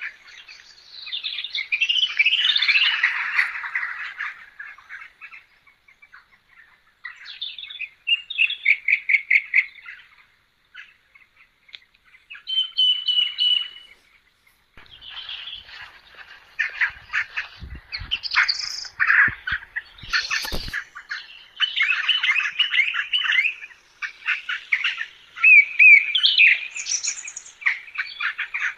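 Birds chirping and singing in a mix of rapid trills and repeated calls, coming in bouts with short pauses, with a few sharp clicks about two-thirds of the way through.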